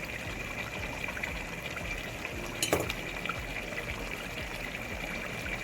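Chicken and whole spices sizzling steadily in hot oil in the pot, with one sharp clack about two and a half seconds in.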